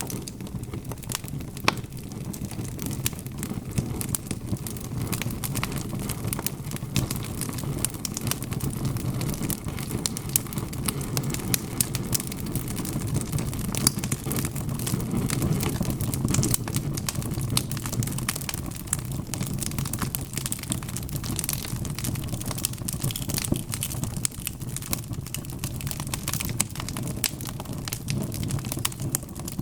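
Wood fire crackling, with frequent sharp pops and snaps over a steady low rush of burning flames.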